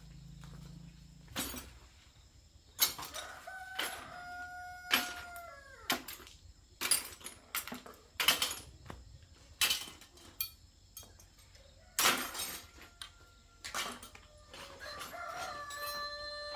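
A rooster crowing twice, once a few seconds in and again near the end, with many sharp, irregular knocks in between.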